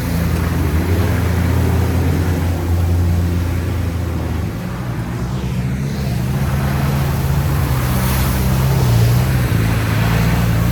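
Off-road vehicle's engine running loud and steady, its note changing about halfway through as the engine speed shifts.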